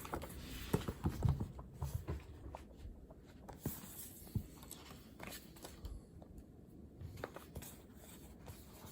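Scattered light clicks and taps of small objects being handled, busiest in the first second and a half, over faint room noise.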